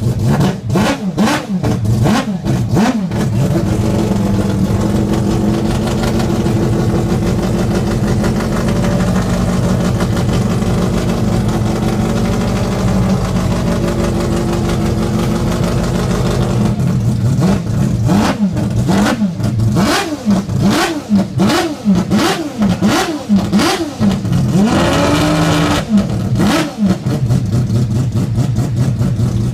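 Mazda 787B's four-rotor rotary engine being warmed up: blipped sharply a few times, then held at a steady raised idle, then blipped again about once a second, with one longer rise in revs near the end.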